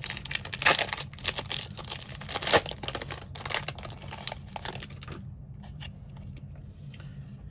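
A foil trading-card pack being torn open by hand and its wrapper crinkled: a dense, irregular crackling that thins to a few scattered crinkles about five seconds in, over a steady low hum.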